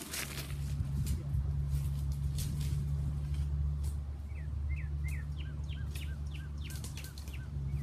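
A steady low hum runs throughout. Over it, a songbird chirps a quick series of about ten short notes from about four seconds in. A few crisp clicks or crunches, like footsteps on gravel, come in the first few seconds.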